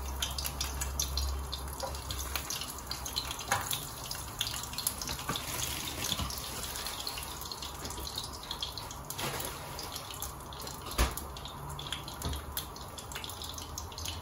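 Nuggets frying in a non-stick pan: a steady sizzle of hot oil with scattered crackles and pops, one louder pop toward the end.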